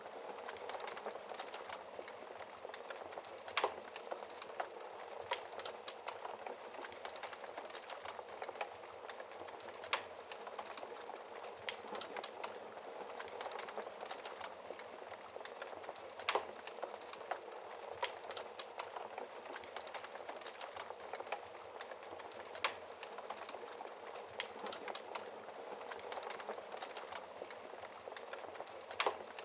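Wood fire crackling: a steady fine crackle with sharp pops every few seconds, the loudest at about three and a half, ten, sixteen and twenty-nine seconds in.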